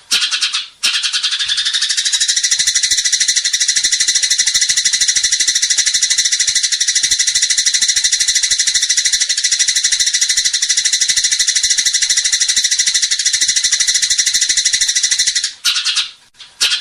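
A songbird's fast, unbroken rattling trill held steady for about fifteen seconds. It breaks off briefly near the end and starts again.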